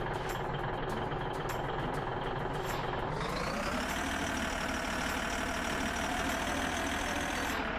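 Heavy truck engine running. About three seconds in it revs up and holds the higher revs, then drops back near the end.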